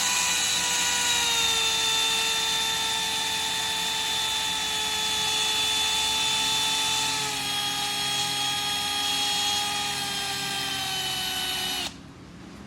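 Electric drill spinning a cotton swab to polish corrosion from the inside of a carburetor float needle seat: a steady motor whine whose pitch sags slightly, cutting off suddenly near the end.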